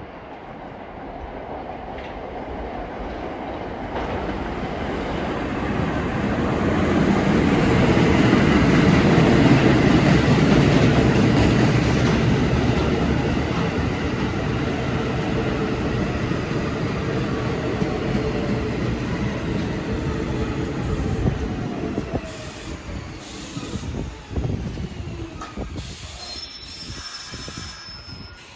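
R46 New York City subway train running on the rails: the rumble of wheels and motors builds to a peak about eight to twelve seconds in, holds with a falling whine, then dies away after about twenty-two seconds. Clicks and a high-pitched wheel squeal come near the end.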